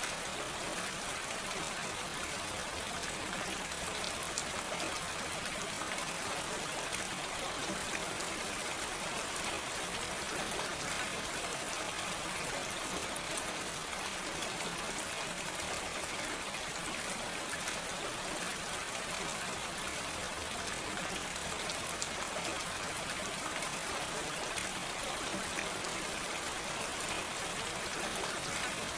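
Steady gentle rain with no thunder: an even hiss of falling rain with fine, scattered drop ticks throughout.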